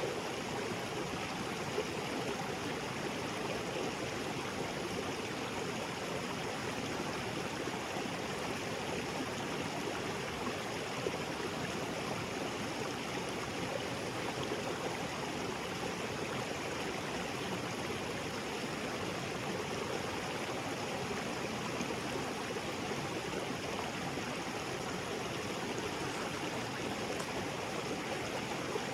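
A small waterfall spilling into a rocky creek: steady rushing and splashing water, unchanging.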